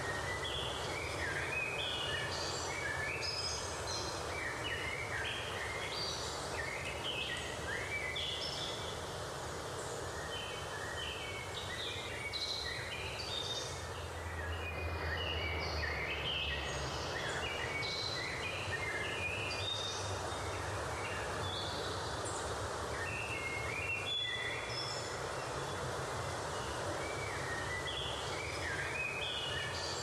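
Birds chirping in a dense, continuous chorus of short high calls over a steady hiss of outdoor ambience.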